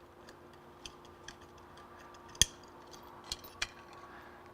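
Scattered small clicks and taps of a small electrical switch and parts being handled, with one sharp click a little past halfway and two lighter ones soon after.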